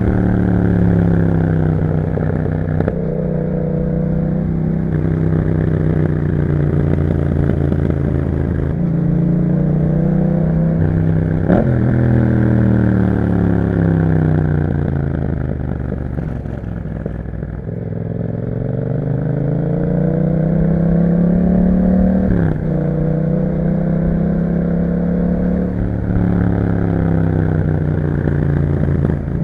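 Yamaha MT-07's 689 cc parallel-twin engine breathing through an aftermarket Akrapovic exhaust while riding: the pitch rises through the gears with quick breaks at the upshifts, falls away through the middle as the bike slows, then climbs again with another shift.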